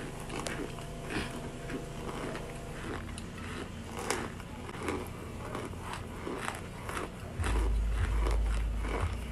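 Crunchy baked cornstarch chunks being bitten and chewed, a run of crisp crunches about three times a second. About two-thirds of the way in a low rumble comes in and becomes the loudest sound.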